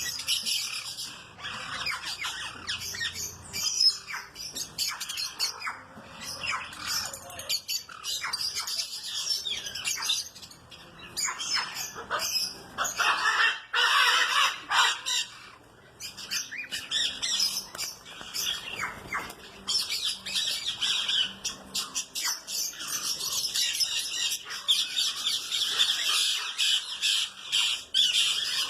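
A mixed flock of aviary birds chirping and squawking together in a dense, continuous chatter of many short, high calls. It grows louder about halfway through and again in the last third.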